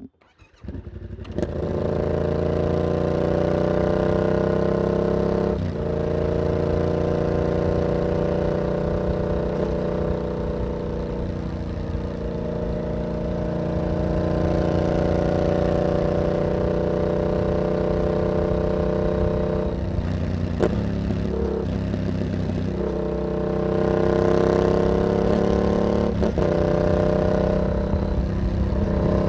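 Yamaha MT-07 parallel-twin motorcycle engine through an aftermarket carbon exhaust with its dB killer fitted, running loud under way, its note rising and falling with the throttle and a few brief dips in between. It comes in about a second in.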